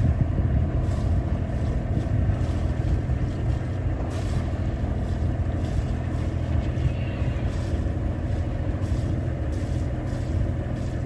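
Sailing yacht's inboard engine running steadily under way, a constant low hum with water and wind noise over it.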